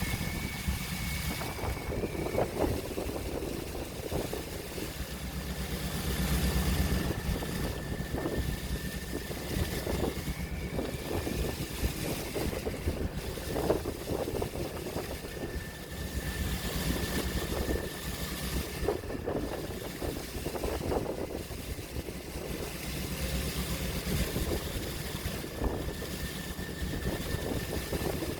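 Open-sea waves washing and splashing in repeated swells over a steady low mechanical hum, with a faint thin steady whine running through it.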